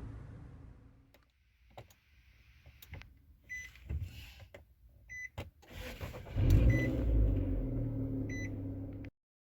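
Car sounds: scattered sharp clicks and four short high beeps, then about six seconds in the engine starts with a loud surge and settles toward a steady idle. The sound cuts off abruptly near the end.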